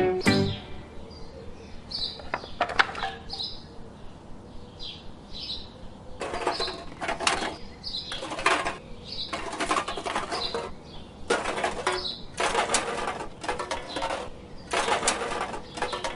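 Small birds chirping in short high notes. From about six seconds in come repeated short rustling or scraping bursts, each under a second long, which are the loudest sound.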